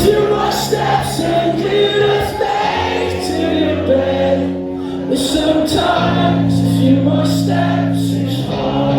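Live band playing with sung vocals over sustained bass notes, as heard from the audience in a large hall.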